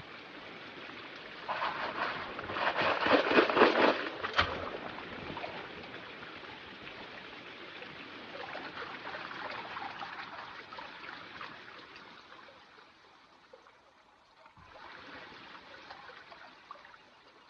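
Water sloshing and splashing in a gold pan as it is swirled and dipped to wash out clay and gravel, loudest a couple of seconds in, then easing to a softer trickle.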